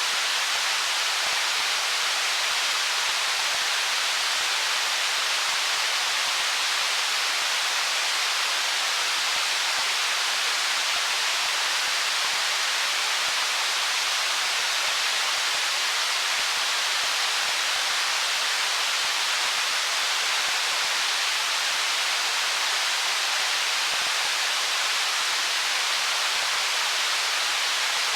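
Stream running over stones: a steady, even rush of water with no distinct splashes or changes.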